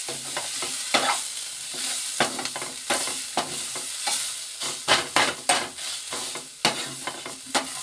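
Sliced onions, ginger-garlic paste and ground spices sizzling in oil in a nonstick kadai while a metal spatula stirs them, scraping and tapping the pan several times a second. The masala is being fried (bhuna) while it is stirred.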